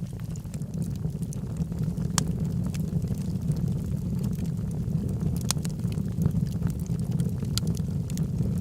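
Log fire burning in a fireplace: a steady low rumble of the flames with scattered sharp crackles and pops, the loudest pops about two seconds and five and a half seconds in.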